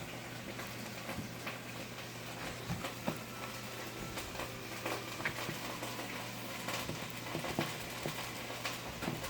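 Breaded steaks frying in hot butter and coconut oil in a skillet: a steady sizzle with many small irregular crackles and pops.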